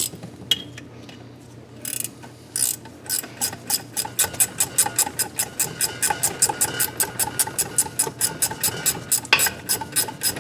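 Hand ratchet clicking steadily at about five clicks a second while a thread chaser is worked through damaged exhaust-side threads on a KA24DE engine. A few separate clicks and knocks come before the steady run begins, about three seconds in.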